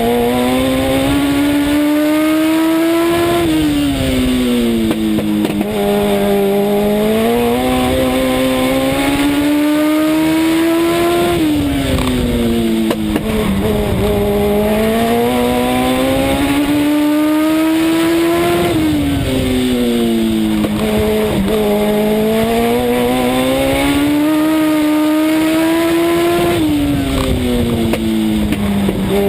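Legend race car's Yamaha four-cylinder motorcycle engine heard from inside the car, lapping a short oval. The engine note climbs steadily along each straight, then falls quickly as the driver lifts for the turns, about four times in a repeating cycle of roughly seven to eight seconds.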